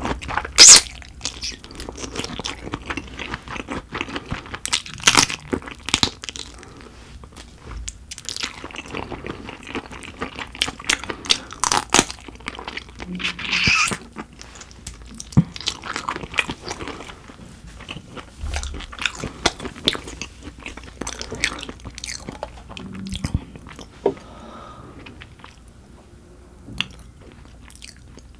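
Close-miked eating of dohwa shrimp: bites, crunches and wet chewing in an irregular run, with the sharpest crunch about a second in and the sounds thinning out and softening near the end.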